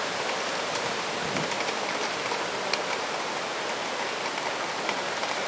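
Floodwater of a swollen river rushing past in a steady, even hiss, with a few faint ticks.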